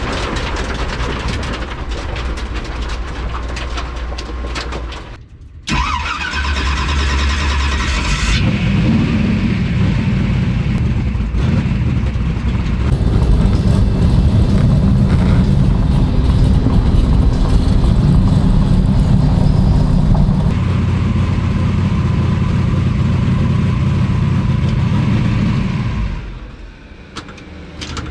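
Twin-turbo big-block Chevy V8 in a Nova running while the car is driven. The sound drops out briefly about five seconds in and a rising whine follows. Then the engine runs loud and steady until it falls away near the end.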